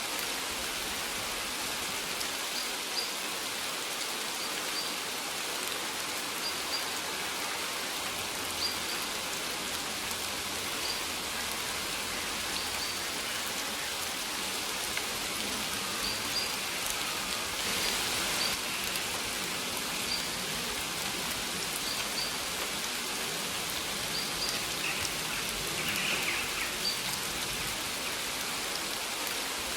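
Steady rain falling, an even hiss of drops pattering on surfaces. A bird gives short, high chirps every second or two.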